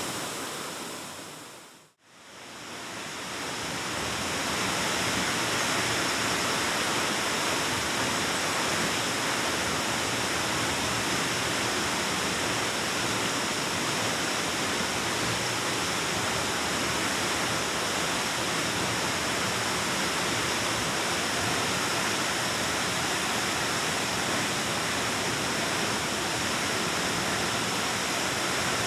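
Waterfall rushing steadily, a dense even roar of falling water. About two seconds in it fades briefly to silence, then builds back up over the next few seconds.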